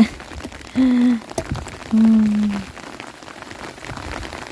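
Steady heavy rain falling, with many small drop ticks. A person's voice makes two short, flat-pitched sounds about one and two seconds in.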